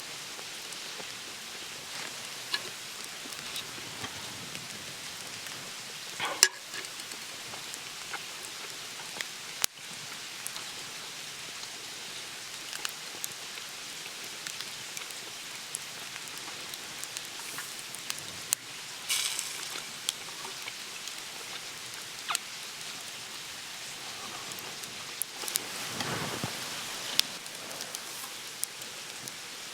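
Monjayaki cooking on a hot iron griddle: a steady sizzling hiss with scattered pops and crackles, and a few louder knocks about six, nineteen and twenty-six seconds in.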